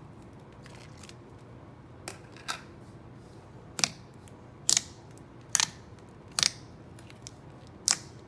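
Glossy, clicky slime being pressed and stretched by hand, giving about seven sharp clicks roughly once a second, starting about two seconds in.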